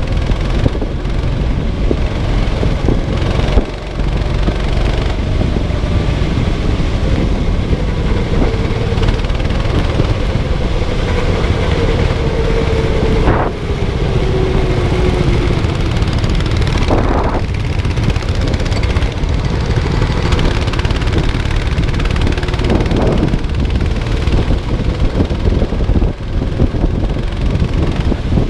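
Kart engine running hard under a steady low rumble of wind and road noise. Its pitch drops between about 12 and 15 seconds in as it slows, and a few short knocks are heard, one near 13 seconds, one near 17 and one near 23.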